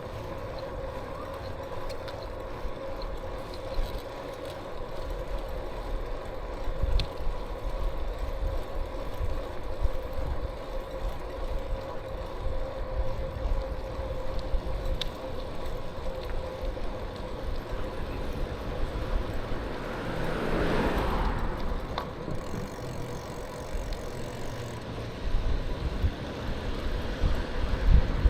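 Riding sounds from a moving bicycle: wind rumbling on the microphone and tyre noise, with a steady hum underneath. About twenty seconds in, a louder rushing sound swells and fades, like a vehicle going by.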